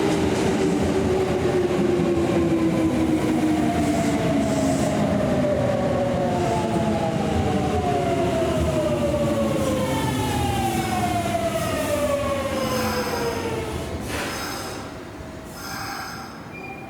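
Kintetsu electric commuter train braking into the station: its motor whine falls steadily in pitch over the first fourteen seconds or so, then fades as the train slows, with brief high-pitched brake squeal near the end as it comes to a stop.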